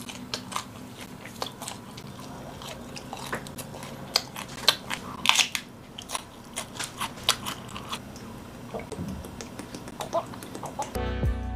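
Close-miked eating sounds: a person biting and chewing food, with many short crunchy clicks scattered irregularly. Music comes in near the end.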